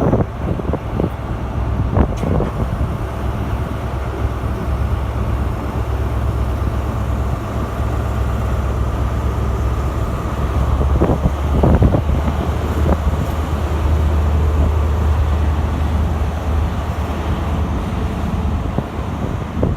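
A train running with a loud, steady low rumble, with a few short knocks about two seconds in and again around the middle.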